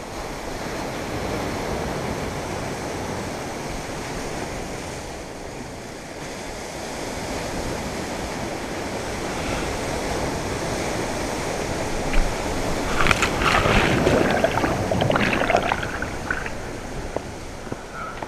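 Ocean waves washing on the shore, with wind buffeting the microphone. About two-thirds of the way through there is a louder, busier stretch of a few seconds that stands out from the surf.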